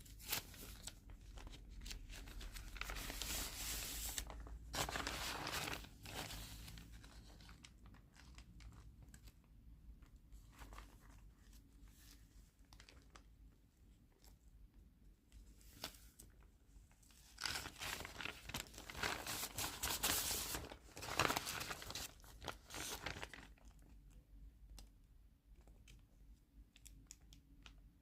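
Sheets of tea- or coffee-dyed paper being handled, rustling and crinkling, with two louder stretches of handling, one in the first few seconds and one about two-thirds of the way through, and softer crackles between.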